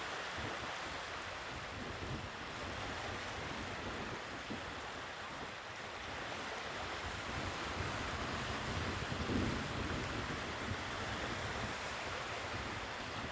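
Sea waves washing ashore in a steady rush, with some wind on the microphone.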